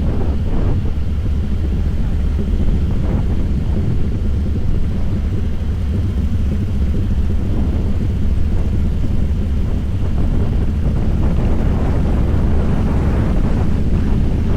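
Harley-Davidson Fat Boy's V-twin engine running under way at a steady cruise: a steady, low rumble that holds an even level throughout.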